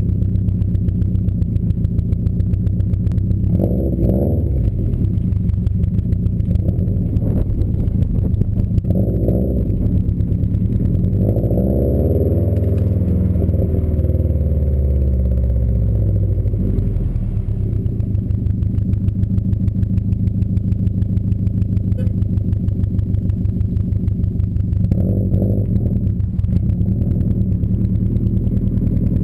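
2015 Subaru WRX STI's turbocharged 2.5-litre flat-four running through a Nameless aftermarket exhaust: idling with short throttle blips about 4 and 9 seconds in and again near the end, and a longer rev that rises and falls back to idle in the middle.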